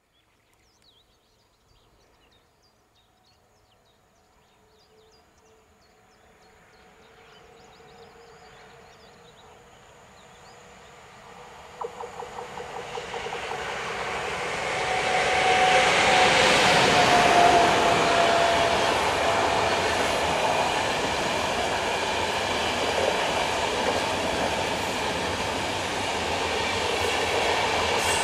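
EU44 (Siemens Taurus) electric locomotive hauling a rake of passenger coaches, approaching from faint and passing close. The rumble of wheels on rail builds slowly, with a run of rhythmic clicks over rail joints about halfway through. The train is loudest a little after that, then goes on as a steady clatter of the passing coaches.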